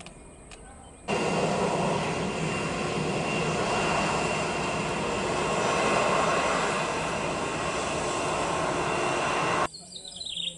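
Airliner engines running loud and close as the plane passes, a dense roar with a few steady whining tones. It starts suddenly about a second in and cuts off sharply near the end.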